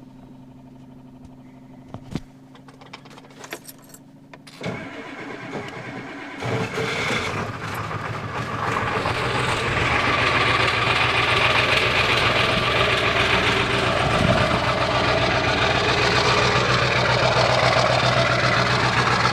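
A few clicks, then the 7.3-litre Powerstroke turbodiesel V8 of a 1997 Ford F-350 cranks at about five seconds in and catches within a couple of seconds on a cold start, its glow plugs working on a new relay. It then runs at a steady cold idle, loud and settling.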